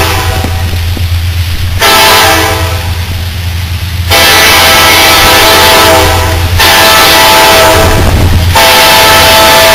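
Norfolk Southern SD70M freight locomotive sounding its horn in a series of long, very loud blasts of about two seconds each, with the steady low rumble of the train underneath.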